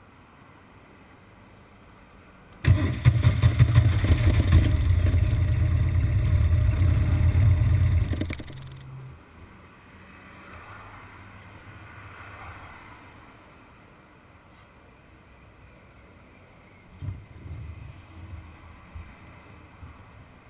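BMW R1200GS Adventure's boxer-twin engine bursts into life a few seconds in, runs loudly for about five seconds, then cuts out abruptly. The bike has an intermittent fault that makes it stall and idle roughly once it slows in traffic after a long fast run.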